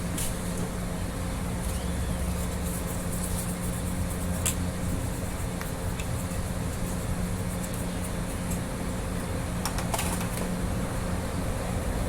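A steady machine hum with a few short light clicks and taps scattered through it.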